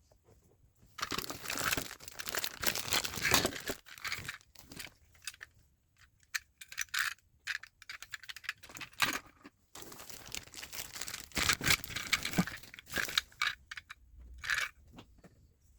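Handling noise: bursts of rustling and crinkling, like paper or plastic being handled, with a few small clicks. The longest bursts come about a second in and again around ten seconds in.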